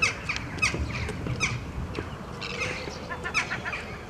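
A bird's repeated squawking calls: short cries falling in pitch, two or three a second, with a short pause about halfway, over a faint rushing background.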